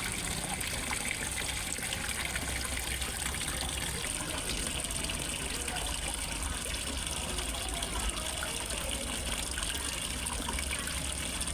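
Water falling into a fish pond, gushing and trickling steadily like a small waterfall.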